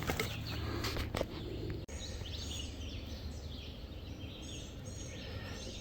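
Wild birds chirping, a run of short high calls starting about a third of the way in, over a low steady outdoor rumble.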